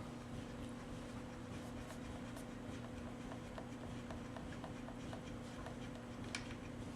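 Faint small clicks and light scraping of tools and parts being handled while a chainsaw's bar-cover nuts are undone, in an irregular run through the middle, over a steady low hum.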